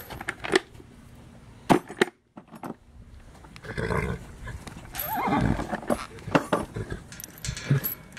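A horse whinnying around the middle, a call with wavering pitch, among several sharp knocks at horse feeding time.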